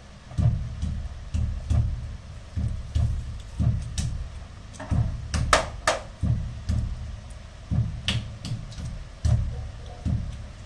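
People eating fried chicken wings: dull chewing thuds at an uneven pace of about two a second, with a few sharp crunches or clicks in the middle.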